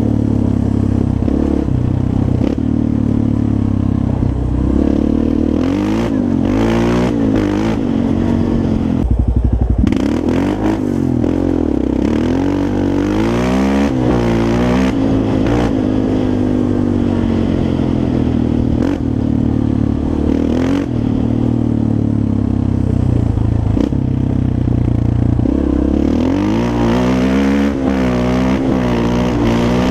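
Yamaha Raptor 350 quad's single-cylinder four-stroke engine being ridden, its pitch rising and falling over and over as the throttle is worked. There is a brief loud rumble about nine seconds in.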